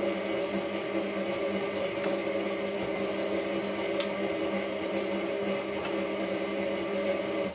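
Hotpoint 9534A washing machine's motor turning the drum during the main wash: a steady hum, with a faint click about four seconds in. The motor cuts off near the end as the drum pauses between tumbles.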